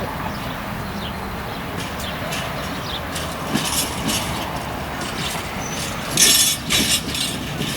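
A train running on the rail line: a steady rumble with a run of sharp metallic clicks that grows loudest about six seconds in.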